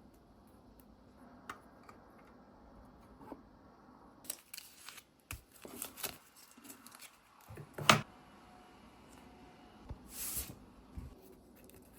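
Hands at work with paper and small craft tools: scattered light clicks and rustles, with a sharp click about eight seconds in.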